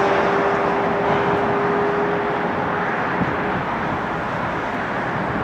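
Lockheed Super Constellation's four radial piston engines droning steadily as it climbs away, slowly fading.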